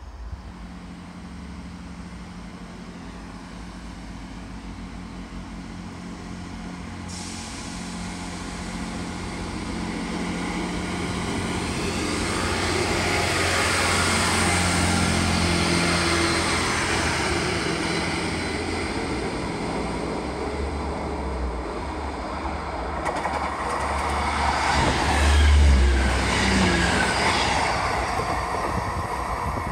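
A Northern Class 158 diesel multiple unit passing close by. The drone of its underfloor diesel engines and the noise of its wheels on the rails grow louder as it nears, loudest about halfway through and again near the end.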